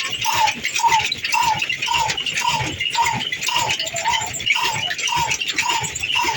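Old stationary diesel engine running slowly with an even beat of about two strokes a second, each stroke carrying a short squeaky tone.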